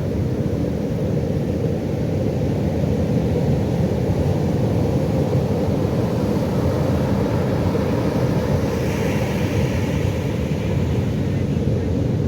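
Pacific Ocean surf: a steady low rush of breaking waves, with the brighter hiss of a wave washing in about nine seconds in.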